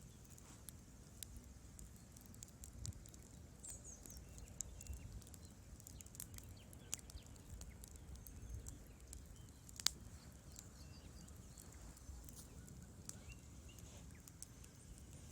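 Wood fire in a fireplace, crackling with irregular small snaps and pops, and one louder pop about two-thirds of the way through.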